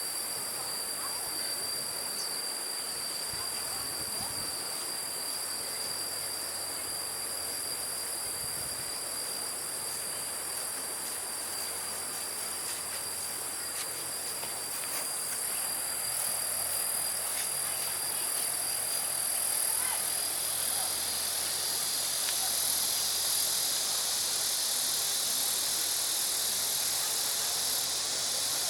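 Outdoor insect chorus: a continuous high-pitched trilling with one thin steady tone running through it. About twenty seconds in, a louder, broader insect buzz joins and then cuts off abruptly at the end.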